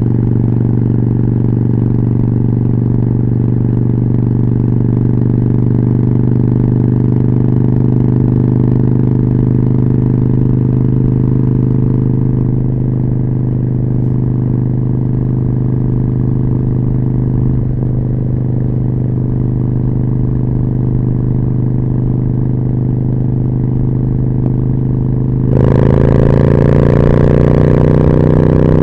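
Harley-Davidson Forty-Eight's 1200 cc V-twin with a Jekill & Hyde exhaust idling steadily, then near the end the throttle opens and the engine pulls away, louder and rising in pitch as wind noise comes in.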